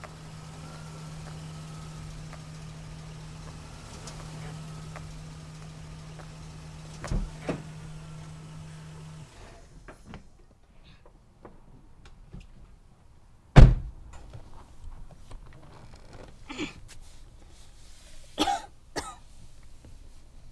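Car engine idling, with a couple of thumps about seven seconds in, then the engine stops. A single loud bang follows about four seconds later, then a person coughing a few times.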